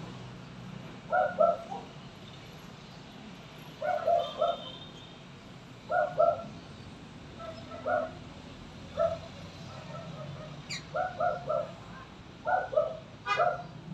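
A bird calling over and over in short groups of two to four notes, a new group every one to two seconds.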